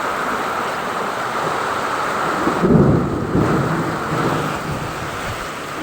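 Heavy rain falling steadily, with a roll of thunder that builds about two and a half seconds in, is loudest around three seconds and rumbles off over the next couple of seconds.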